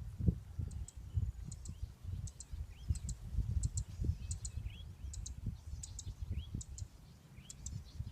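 Outdoor animal calls: sharp high double clicks repeating about every two-thirds of a second, with short rising chirps between them, over an uneven low rumble.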